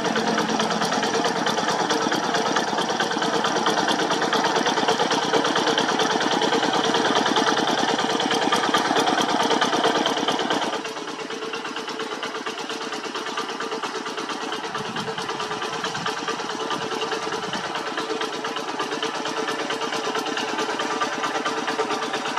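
Diesel engine of a two-wheel hand tractor running steadily with a fast firing beat. About halfway through it drops noticeably in loudness and carries on at the lower level.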